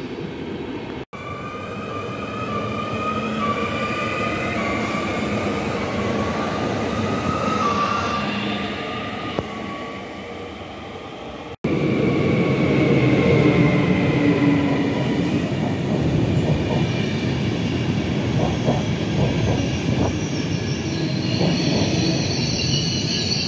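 Locomotive-hauled passenger trains moving along a station platform: a steady rumble of wheels on rail with a thin, wavering metallic squeal from the wheels. The sound breaks off briefly about a second in and again near the middle, and the second train, close by, is louder.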